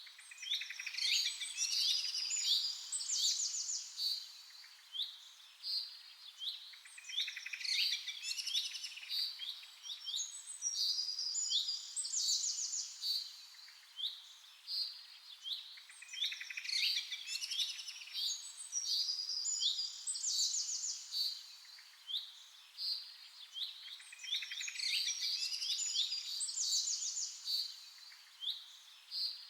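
Birds chirping and singing: dense clusters of quick chirps and rapid trills, with sharp single high notes between them, swelling in similar phrases every several seconds.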